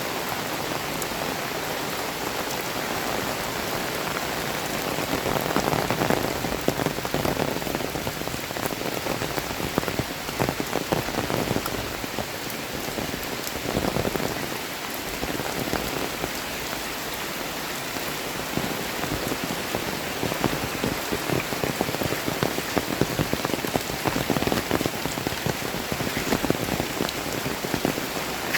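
Heavy tropical downpour: dense, steady rain with countless drops spattering close by, louder in a few spells.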